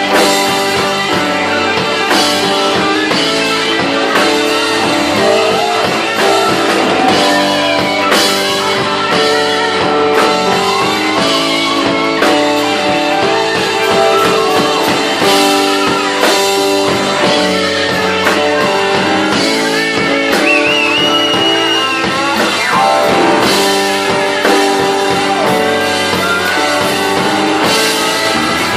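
Blues band playing live: a guitar line with bent notes over a drum kit, with no singing.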